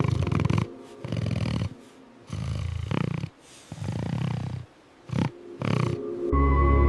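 Heavy, snorting breaths in about six irregular bursts with short pauses between them. Near the end, a sustained low musical drone comes in.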